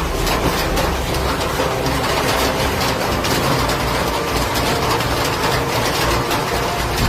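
Heavy rain and hail pelting down on hard surfaces: a dense, continuous clatter of impacts over a low rumble.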